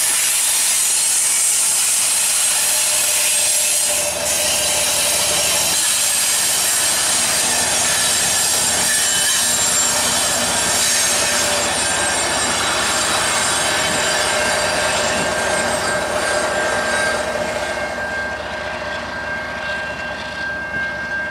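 Tail end of a long freight train rolling past, with the rear GE ES44AC distributed-power locomotive going by: steady wheel-and-rail noise with high, continuous squealing from the wheels. It fades gradually over the last few seconds as the train moves away.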